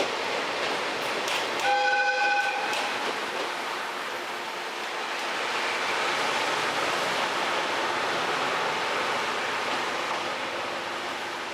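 Train running on the rails with a steady rumble, and a train horn sounding one blast of about a second, about two seconds in.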